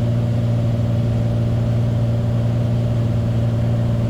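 Steady drone of a light aircraft's piston engine and propeller heard inside the cabin, with a strong low hum and fainter higher tones, holding an even pitch and level.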